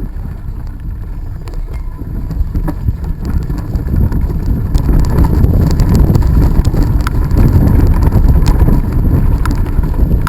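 Wind buffeting the microphone of a camera carried on a moving bicycle, a heavy low rumble that grows louder about four seconds in, with scattered light clicks and rattles.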